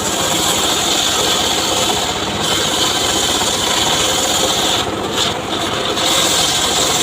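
Homemade circular saw cutting mahogany wood: a steady, loud, high rasp of the blade in the cut. The high part dips briefly about two seconds in and again for about a second near five seconds.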